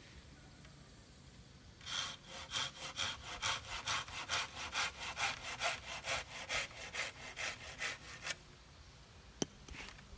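Rhythmic back-and-forth rasping strokes, about three to four a second, keep on for about six seconds and then stop. A single sharp click follows near the end.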